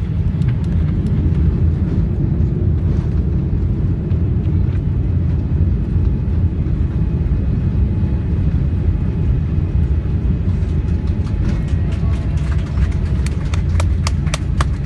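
Steady low rumble of a Boeing 787 Dreamliner in motion, heard from inside the cabin, with a run of sharp clicks near the end.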